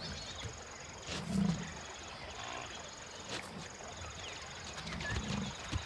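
Two short, low animal grunts, about a second in and again near the end, over faint bush ambience with a steady high insect tone.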